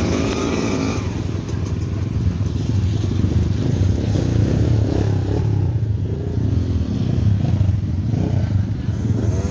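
Motorcycle engine running steadily under load, with rattling and clatter from riding over a rough, rocky trail.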